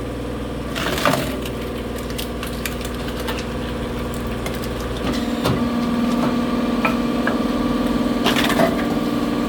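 An engine-driven machine runs steadily while firewood cracks and splinters: sharp cracks about a second in, midway, and again near the end.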